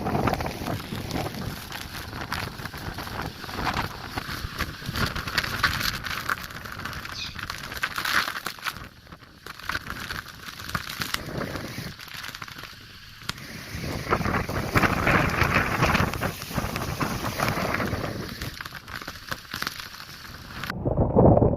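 Typhoon wind gusting with heavy rain, swelling and easing every few seconds and buffeting the microphone, with a quieter lull about nine seconds in.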